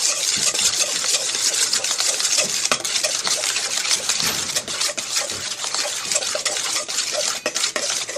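A spoon stirring a wet mixture in a bowl, scraping steadily, with quick clicks of the spoon against the bowl's sides.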